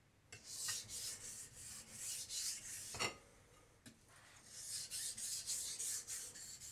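Steel kitchen knife blade scraping back and forth on a Naniwa Professional (Chosera) 400 grit whetstone, held at a low angle to thin the blade behind the edge. Runs of rasping strokes, with a sharp click and a short pause about halfway through before quicker strokes resume.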